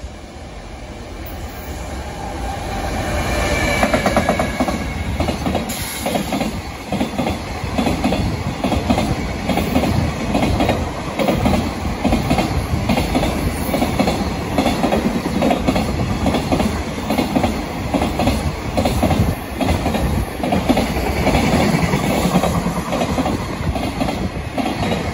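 A JR Freight train passing close by. It grows louder over the first few seconds, then a long string of freight wagons clatters past in a steady, even rhythm of wheels over rail joints.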